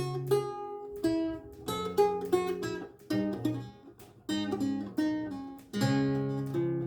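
Renaissance lute with gut strings played solo: plucked chords and single-note lines, each note ringing out and fading, in short phrases with brief pauses between them.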